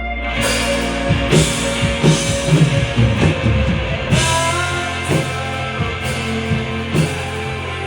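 Rock band playing live with no singing. Sustained electric guitar chords ring out, and the drum kit comes in about a second in with a run of hits and cymbal crashes.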